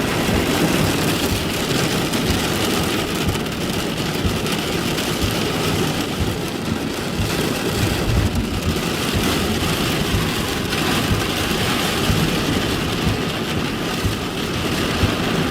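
Heavy rain pelting a vehicle in a thunderstorm, heard from inside the car as a steady hiss with many small knocks on the body.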